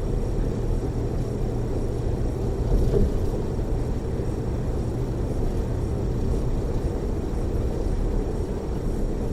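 Steady low rumble of road and engine noise inside a tour coach's cabin as it travels along a freeway, with a brief bump about three seconds in.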